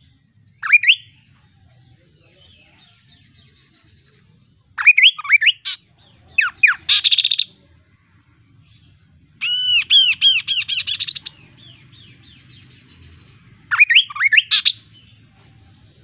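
Kaso-kaso bird singing: five short phrases of quick, sweeping whistled notes with pauses between them. The longest phrase, near the middle, is a run of rapidly repeated arched notes lasting about two seconds.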